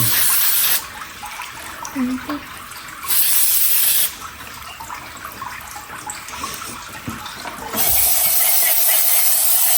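Three bursts of loud hissing spray, each about a second long, starting and stopping sharply, with a quieter hiss between them.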